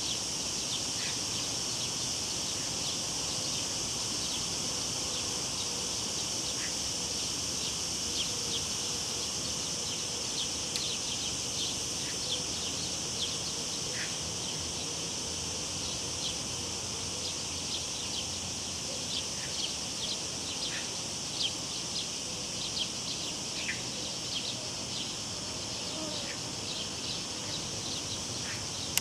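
Cicadas buzzing in a steady high drone, with many short bird chirps scattered through it over a low, even background rush.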